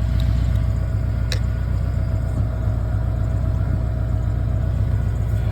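Engine idling steadily with a low rumble, and a single sharp click just over a second in.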